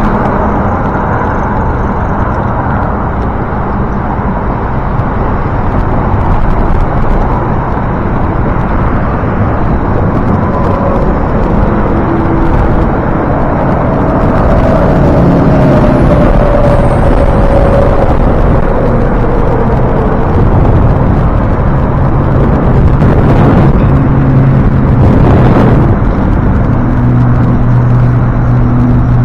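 Road traffic heard from a moving bicycle: cars passing by, mixed with steady wind rush on the action camera's microphone. Near the middle one vehicle's engine note slowly falls in pitch.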